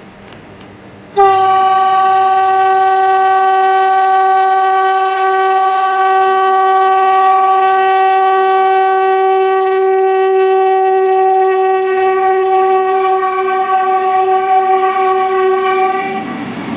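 A train horn sounding one long, steady note that starts abruptly about a second in, is held for about fifteen seconds and stops shortly before the end.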